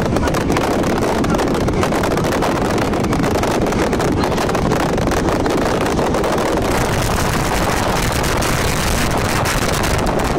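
Dense fireworks barrage: rapid bangs and crackling merge into one continuous roar, with a hissing crackle swelling in the second half.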